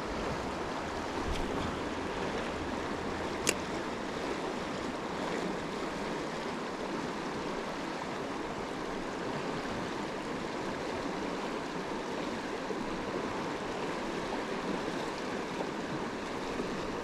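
Steady rushing of a flowing stream, with one brief click about three and a half seconds in.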